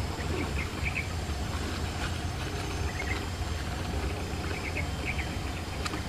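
Faint short bird chirps, in small clusters about one, three and five seconds in, over a steady low background rumble.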